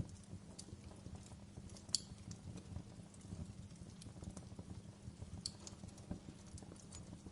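Wood fire crackling in a fireplace: scattered sharp pops and snaps over a faint low rumble, the sharpest pop about two seconds in.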